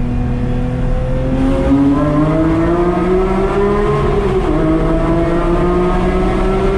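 Porsche 911 GT3 flat-six engine and exhaust pulling hard, the engine note climbing steadily in pitch; about four and a half seconds in the pitch drops briefly, then climbs again.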